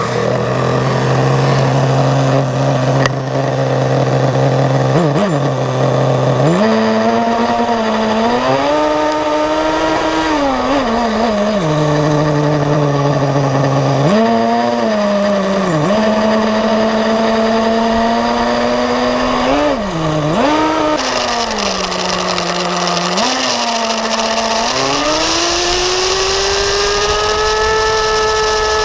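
Gas-powered RC car's small two-stroke engine running close by. It idles steadily at first, then is revved up and down several times, ending in a long high rev near the end.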